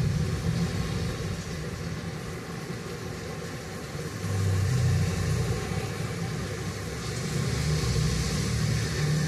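Steady rain ambience: an even hiss of falling rain under a low rumble that swells about four seconds in and again near the end.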